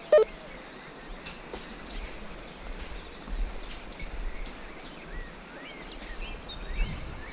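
Small birds chirping in short, quick calls, most of them in the second half, over a steady outdoor hiss.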